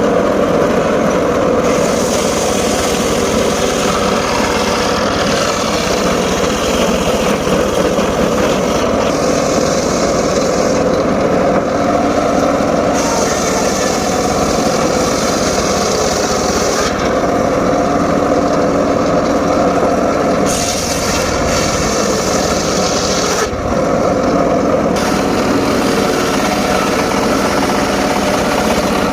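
Homemade engine-driven circular saw running steadily and cutting mahogany. The hiss of the blade in the wood comes and goes in stretches of a few seconds, with the engine's steady drone beneath.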